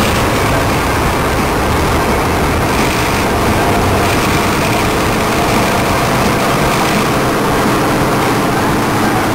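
Car engine and exhaust running loud and steady at road speed, with a rapid low pulsing under a haze of road and wind noise.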